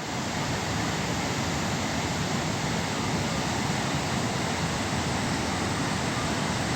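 Steady rushing noise with a fluttering low rumble, heard on a boat moving at sea.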